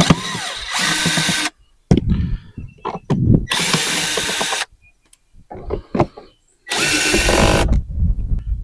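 Cordless power drill backing out the small bolts that hold the cover on an RV rooftop air conditioner, whirring in three short runs of about a second each, with light knocks between them.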